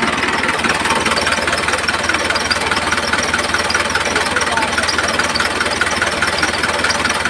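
Small motor running steadily with a fast, even rattle, typical of a homemade mini tractor model's geared drive.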